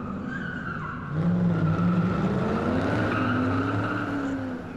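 Slot cars running on the track, their small electric motors whining with a pitch that rises and falls as they speed up and slow down. It gets louder about a second in.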